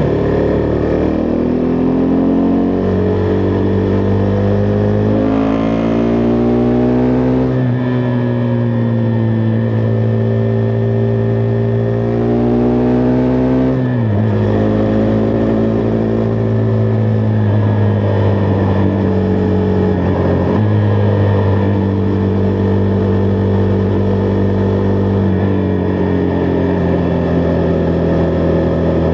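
Husqvarna Vitpilen 401's single-cylinder engine under way, its pitch climbing under acceleration and dropping sharply at upshifts about seven and fourteen seconds in, then holding near-steady revs while cruising.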